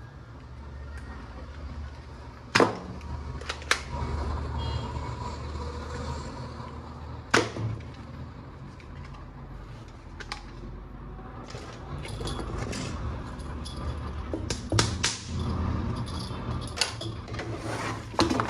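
Plastic toy gun parts being handled, with a handful of sharp, separate clicks over light rustling and a low steady hum.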